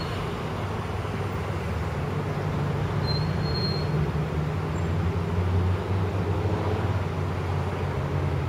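Distant Union Pacific diesel locomotives hauling a long train: a steady low engine drone over the rumble of the rolling train, swelling a little in the middle.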